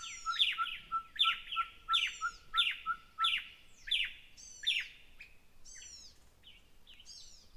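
Bird calling in a steady series of short, downward-sweeping chirps, about one every two-thirds of a second, growing fainter after about five seconds.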